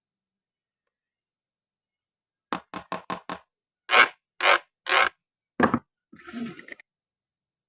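A toy knife chopping and tapping on toy food on a cutting board: a quick run of light knocks, then four louder, evenly spaced chops, ending in a short scraping rasp.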